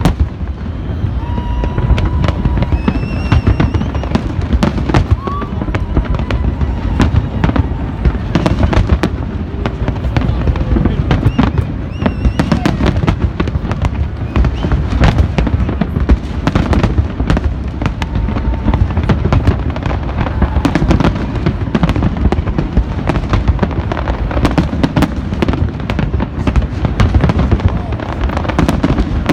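Large fireworks display: a dense, continuous barrage of shell bursts and bangs over a deep rolling rumble of booms, with no let-up.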